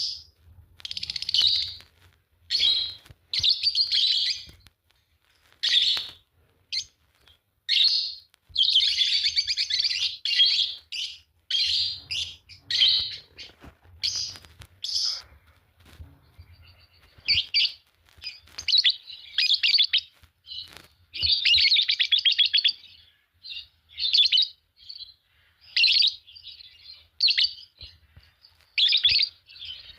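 A pair of Fischer's lovebirds chirping and chattering in quick, high-pitched bursts, with longer warbling phrases now and then and short pauses between them.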